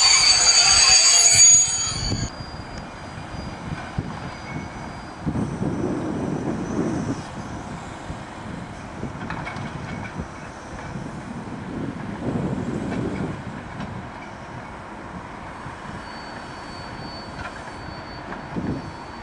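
Freight train hauled by diesel locomotives passing: a loud, high-pitched wheel squeal for about the first two seconds that stops abruptly, then a lower rumble of the locomotives and wagons rolling that swells and fades several times, with a faint squeal returning near the end.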